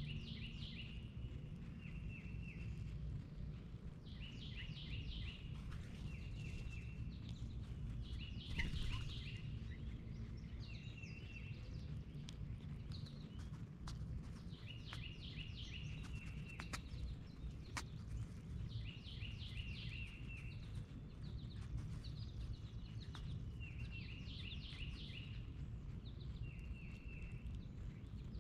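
A songbird singing short phrases of quick high notes, repeated every second or two, over a steady low background rumble. A few faint clicks come in the middle.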